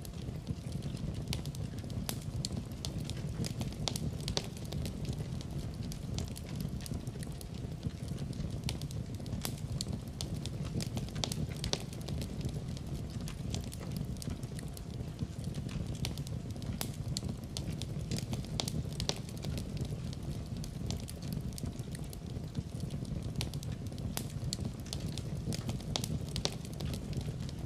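Wood fire crackling in a fireplace: frequent irregular pops and snaps over a steady low rumble of burning.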